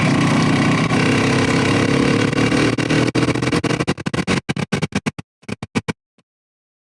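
Motorcycle riding noise, engine and wind, that about three seconds in breaks into a rapid stuttering chop, the fragments coming faster, then cuts to silence near the end.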